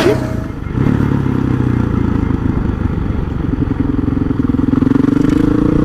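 Honda CRF450 supermoto's single-cylinder four-stroke engine running while the bike is ridden, its note climbing slowly in pitch over the last couple of seconds as it pulls.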